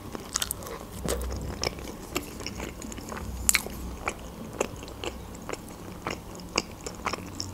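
Close-miked chewing of a mouthful of shawarma in lavash: a run of irregular small wet mouth clicks and crunches.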